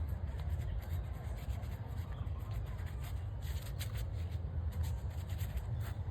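Short scratchy rubbing strokes, most of them between the middle and near the end, over a steady low rumble.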